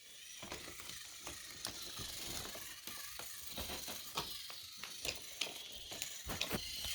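Motorized toy trains running on wooden railway track: small geared motors whirring, with irregular clicks and clacks as the wheels roll over the track joints.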